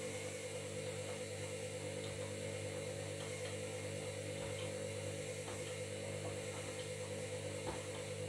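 Washing machine motor running with a steady hum made of several fixed tones, over faint scattered ticks.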